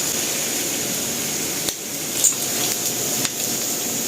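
Pork belly deep-frying in hot oil: a steady sizzle with a couple of sharp pops about two seconds in, the oil still spattering from moisture in the meat.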